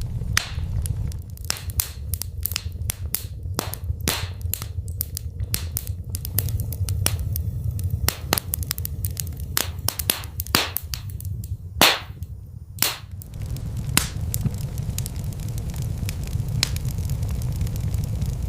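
Wood fire burning in a fireplace: a steady low rumble of flames with frequent sharp crackles and pops, thickest in the first two-thirds, the two loudest pops coming about twelve and thirteen seconds in.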